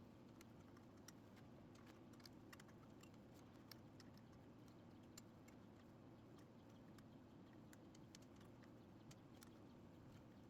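Faint, irregular small clicks of a hand wrench on metal, worked a fraction of a turn at a time on a golf cart carburetor fastener, over a low steady background hum.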